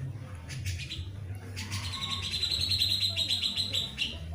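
Small birds chirping, with a fast, even trill about halfway through that lasts about two seconds, over a steady low hum.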